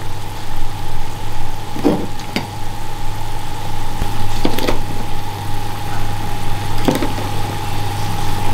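A kitchen knife cutting tough boiled beef pizzle on a plastic cutting board, with four sharp knocks of the blade on the board, over a steady hum.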